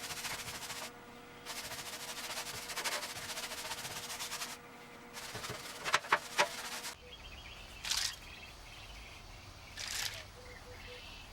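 Aerosol can of Loctite rust neutralizer spraying in three long hissing bursts, with two sharp clicks about six seconds in, then two short sprays later on.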